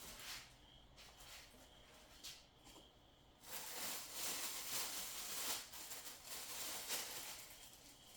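Rustling and crinkling of packaging being handled: a few faint light ticks, then about four seconds of uneven rustle starting about three and a half seconds in.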